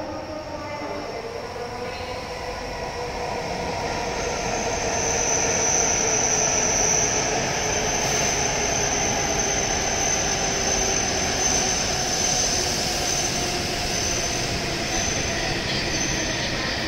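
A W7 series Shinkansen train pulls into the platform and slows. Its running noise builds over the first few seconds and then holds. From a few seconds in a high steady whine runs on, while lower tones slowly drop in pitch as it brakes.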